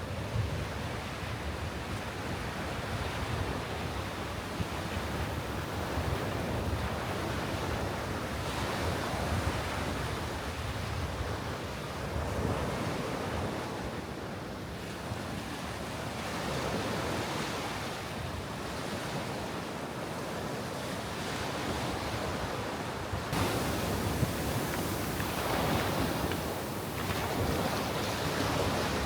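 Caribbean surf washing up on a sandy beach, swelling and fading every few seconds, with wind rumbling on the microphone.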